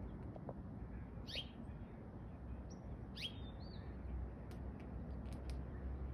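Small birds chirping: two short, sharp falling chirps about a second and three seconds in, the second followed by a brief higher note. A steady low rumble and a few faint ticks sit underneath.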